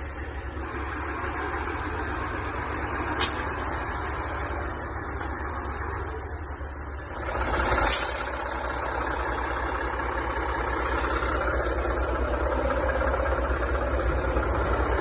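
Mack CXU613 semi truck's diesel engine idling steadily. There is a sharp click about three seconds in, and about halfway through a brief hiss, after which the engine sounds a little louder.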